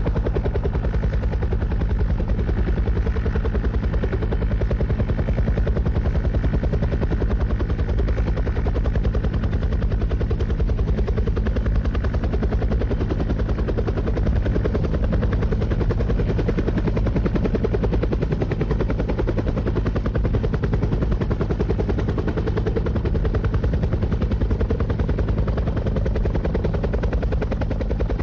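Helicopter rotor blades chopping in a fast, even beat, with the turbine's steady drone underneath, holding the same level throughout.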